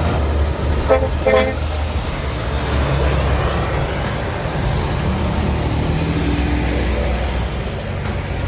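Two short horn toots over the steady low rumble of a heavy truck engine and road noise.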